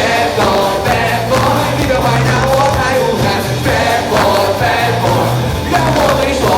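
Pop-rock band music with a singer: sung vocal lines over bass and drums.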